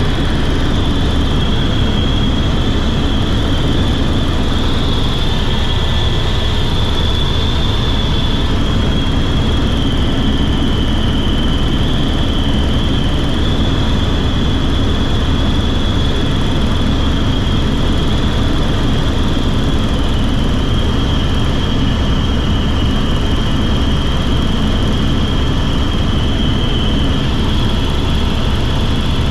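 Helicopter in flight: steady loud turbine-engine and rotor noise, a deep rumble under a constant high whine that wavers slightly in pitch.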